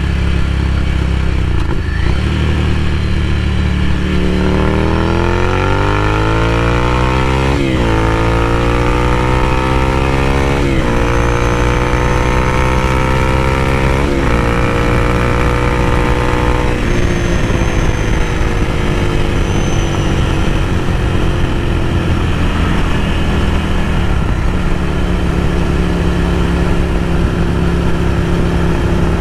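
Ducati Scrambler Café Racer's air-cooled L-twin through a Vance & Hines slip-on exhaust, heard from inside the rider's helmet while riding. It runs steady at first, then climbs in pitch through the gears with three upshifts, each a sudden drop in pitch, before rolling off, falling in pitch and settling back to a steady low beat near the end.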